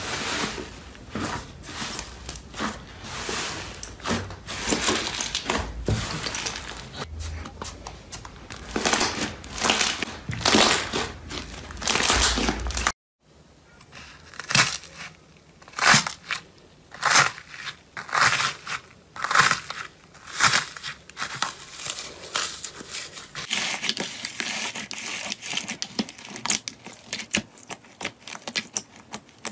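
Slime being worked, giving a dense run of sticky crackles and small pops. It breaks off into a moment of silence about thirteen seconds in, then comes back as louder, more spaced-out pops and crackles.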